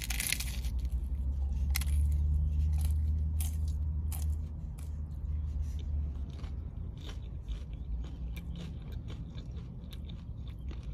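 A crunchy hard-shell corn taco is bitten into and chewed close to the microphone. There is a sharp crunch on the bite, then a run of small crackling crunches as the fried shell is chewed. A low rumble sits underneath for about the first six seconds.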